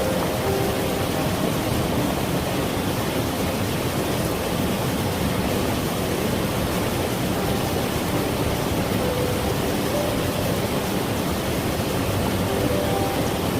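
Mountain valley stream, water rushing and splashing over rocks in a steady, even flow.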